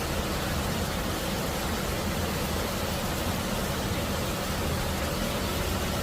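Steady, heavy rain pouring down, an even unbroken hiss with a low rumble underneath.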